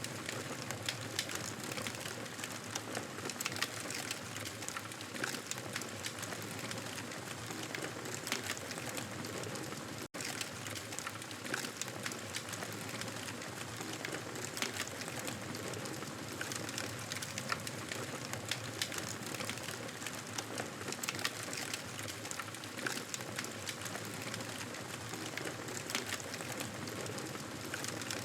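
Campfire burning with a steady hiss and frequent small crackles and pops from the burning wood. The sound cuts out for a split second about ten seconds in.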